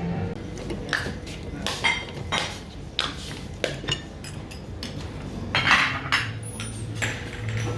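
Dishes and cutlery clinking and clattering: a string of separate knocks and clinks, some ringing briefly, with a louder clatter about five and a half seconds in.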